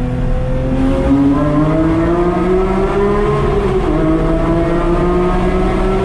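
Porsche 911 GT3's naturally aspirated flat-six accelerating hard under full throttle, heard from the cabin with the window down: the revs climb for about three seconds, fall at an upshift of the manual gearbox about four seconds in, then climb again.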